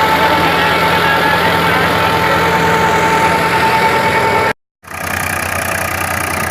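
Diesel tractor engine running steadily, with a steady high whine over it. The sound cuts out for a moment about four and a half seconds in, then the engine resumes without the whine.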